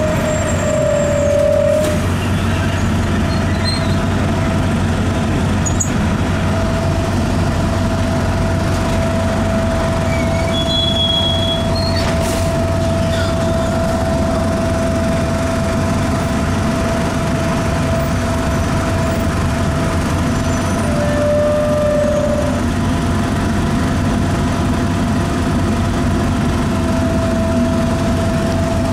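Detroit Diesel Series 50 EGR diesel engine of a 2002 Nova Bus RTS with a ZF Ecomat automatic transmission, running steadily and heard from inside the bus. A steady high-pitched whine sits over the engine drone and drops out briefly a couple of times; the uploader puts this down to a bad turbo in the engine/transmission compartment.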